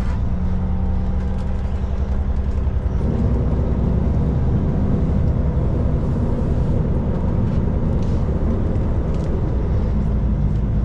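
Kenworth K200 cabover's Cummins diesel engine running steadily. About three seconds in its note changes and turns rougher and a little louder, then holds.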